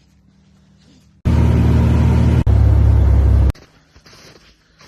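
A small engine running loud for about two seconds, in two pieces with a sharp break between them, ending abruptly; before it, a faint low engine hum.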